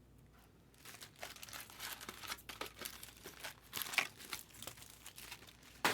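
Foil trading-card pack wrapper crinkling and tearing as it is handled and opened, starting about a second in and going on in irregular crackles.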